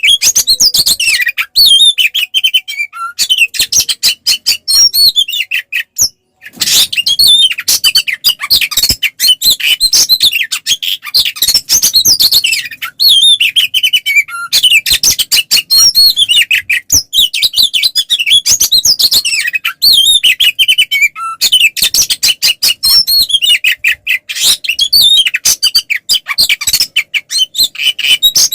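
Oriental magpie-robin (kacer) in full, aggressive fighting song: a loud, rapid, near-unbroken stream of sharp whistles, warbles and chattering notes, with a short break about six seconds in.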